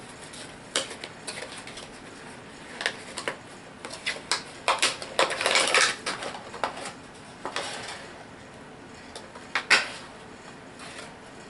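Plastic HeroClix miniatures clicking and clattering against each other as a booster pack is opened and its figures handled, with brief rustles of packaging.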